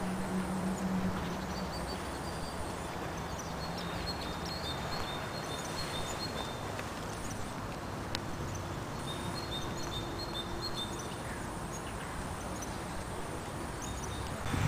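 Outdoor park ambience: steady background noise with small birds calling in short, high chirps on and off, and a single faint click about eight seconds in.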